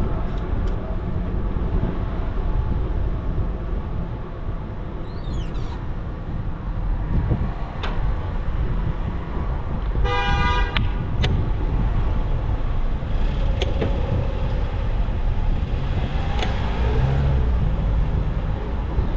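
Street traffic noise with wind rumbling on the microphone, and one short vehicle horn toot about ten seconds in.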